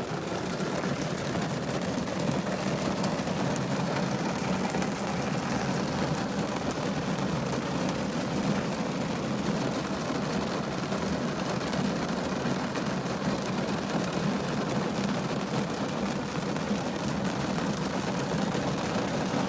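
Rain falling on a car's roof and glass, heard from inside the cabin: a steady, dense hiss of drops.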